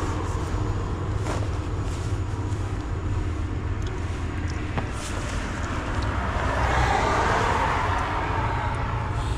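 Road traffic: a steady low rumble, with a vehicle passing that swells to its loudest about seven seconds in and then fades.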